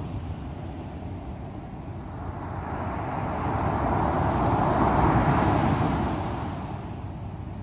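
Ocean surf: a wave breaks, its rushing noise swelling from about two seconds in to a peak near five seconds and dying away, over a steady low rumble of surf.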